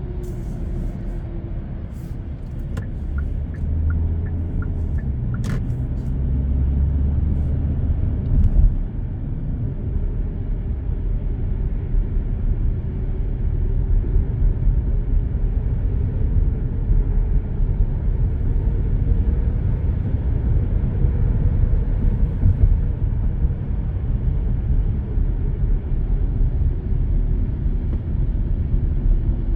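Steady low road and engine rumble of a car driving on an expressway, heard from inside the cabin. A few faint clicks and ticks come in the first six seconds.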